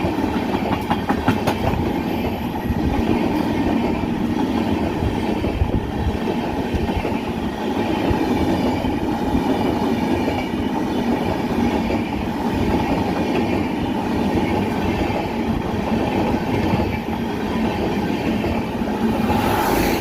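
Indian Railways train running on the track: a steady rumble of wheels and coaches, with a quick run of clicks over rail joints in the first second or two.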